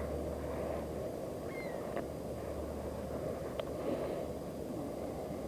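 Steady low outdoor background noise, with a few faint, short bird calls now and then.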